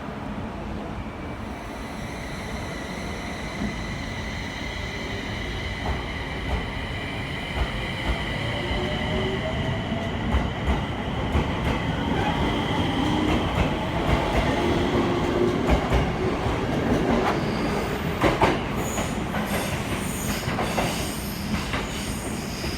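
Electric local train pulling away from the station: its motor whine rises steadily in pitch as it gathers speed, with wheels clacking over rail joints. High wheel squeal comes in near the end.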